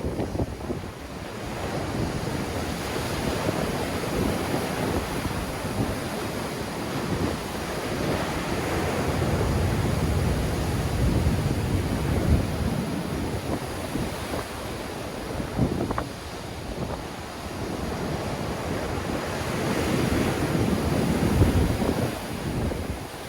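Sea waves breaking and washing on the shore in strong wind, the surf swelling and easing in slow surges, with wind buffeting the microphone as a low rumble.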